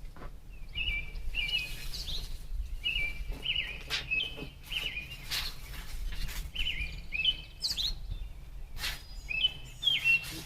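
Songbirds chirping and singing in short, repeated phrases, with a few sharp knocks or clicks in between.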